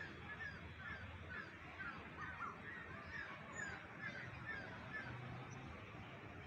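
Birds calling: a run of short, quick chirps, about two a second, over a steady outdoor background. The chirps stop about five seconds in.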